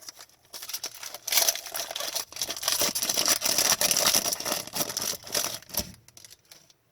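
Wrapper of a hockey card pack crinkling and tearing as it is ripped open and handled, an irregular crackle that starts about half a second in, is loudest in the middle and stops near the end.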